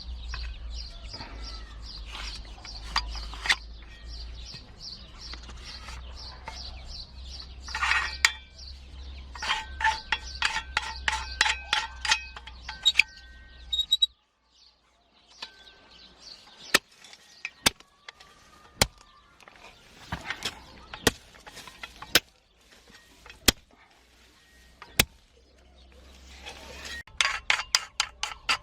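Newly hatched chicks peeping in rapid runs of high chirps. In the middle stretch the peeping drops away and a series of sharp separate clicks is heard. The chirping picks up again near the end.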